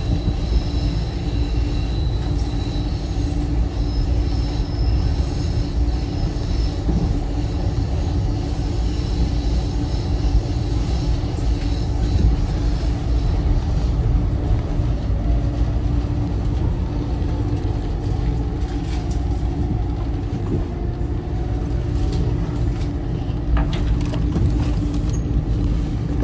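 Steady running rumble of a SEPTA commuter train heard from inside the passenger car while it is moving at speed. A faint high-pitched whine runs over it for the first several seconds.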